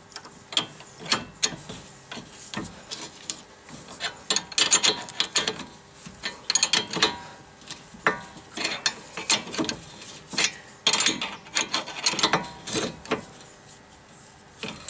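Ratchet wrench clicking in short repeated bursts as it turns the nut on a sway bar link, with the link's stud held by a second tool.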